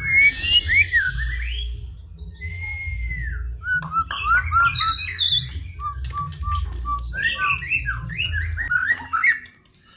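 White-rumped shama (murai batu) singing: a varied song of clear whistles that glide up and down, quick chattering phrases, and a short run of repeated even notes midway, falling quiet briefly near the end.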